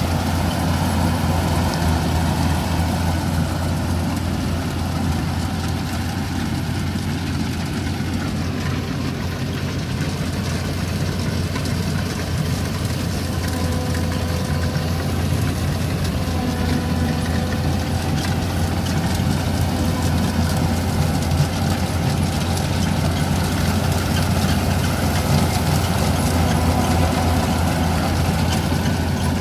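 Heavy farm machinery's engine running steadily, with a continuous low drone and a faint whine above it.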